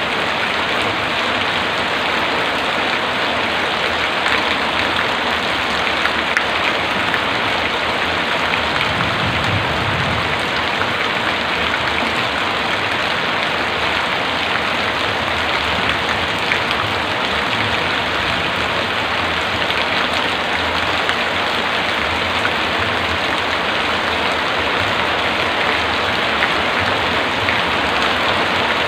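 Heavy rain falling steadily, an even hiss of many drops hitting surfaces.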